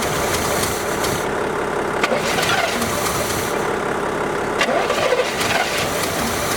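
Chevrolet 350 small-block V8 of a 1977 Caprice running steadily on its first start after five years standing, with a couple of sharp clicks.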